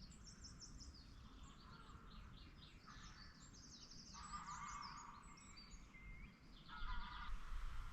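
Faint birdsong: several small birds chirping and trilling in quick, overlapping phrases.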